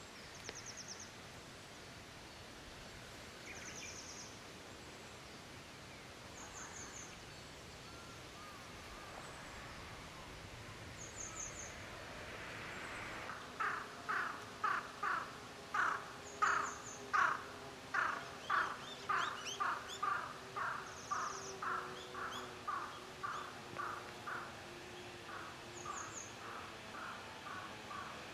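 A bird calling in a long series of evenly repeated notes, about two a second, starting about halfway through and fading gradually; before it, only faint short high-pitched trills every few seconds over quiet forest background.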